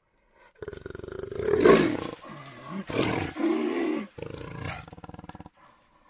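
A jaguar roaring: a run of rough, pulsing calls in several phrases, loudest about a second and a half in.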